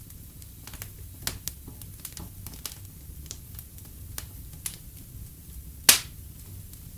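Wood fire burning in a fireplace with a low steady rumble and irregular sharp crackles and pops, the loudest a single sharp pop about six seconds in.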